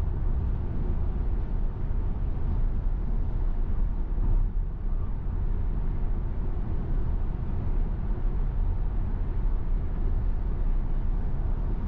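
Steady low road rumble of a Tesla Model Y cruising at highway speed on wet pavement, heard from inside the cabin.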